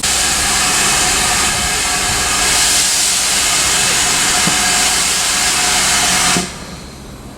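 Steam locomotive, a GWR Manor class 4-6-0, releasing steam: a loud, steady hiss that starts suddenly and cuts off sharply after about six and a half seconds.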